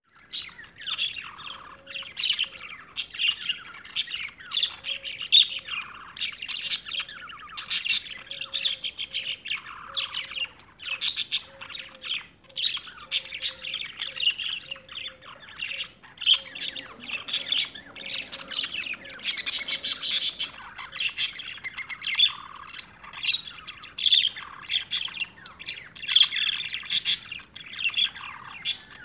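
Small birds chirping, with many short calls coming one after another and overlapping, and a brief denser burst of high chirps about two-thirds of the way in.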